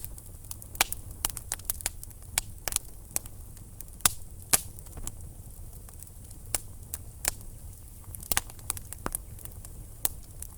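Wood fire burning in a fireplace, with irregular sharp crackles and pops from the logs over a low steady rumble of the flames; two louder pops come about four seconds in.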